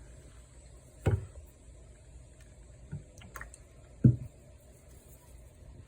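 Two dull knocks about three seconds apart, with a few faint light clicks between them: handling noise as the wooden board is moved while it is being oiled.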